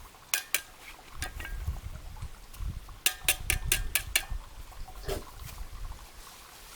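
Light clinks and knocks, with a quick run of about six strikes in the middle, over a low rumble.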